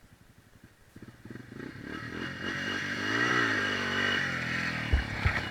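Dirt bike engine revving, its pitch climbing and then falling back, coming in about a second in. Two dull thumps near the end.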